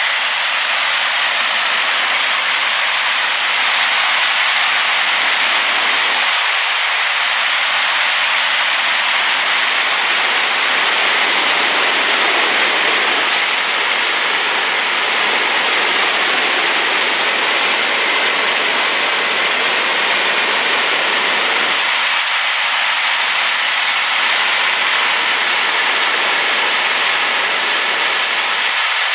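Waterfall pouring in a loud, steady rush of white noise, its flow swollen by rain.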